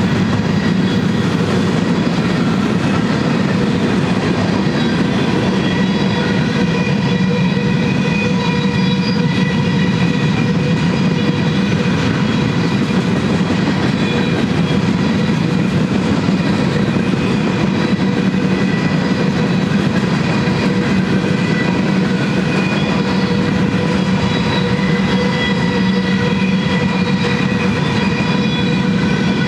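Covered hopper cars of a freight train rolling past: a steady, loud rumble of steel wheels on rail, with faint steady ringing tones held above it.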